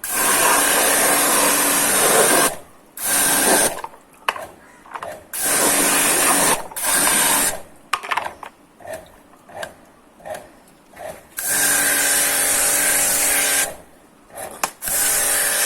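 Pressure washer running in repeated bursts of one to two seconds, spraying water over a chainsaw.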